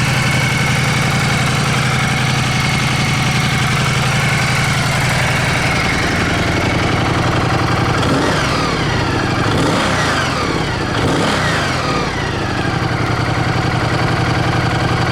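Ducati Multistrada 1200S V-twin idling through a Termignoni exhaust, then revved a few times about halfway through, the pitch rising and falling, before settling back to a steady idle.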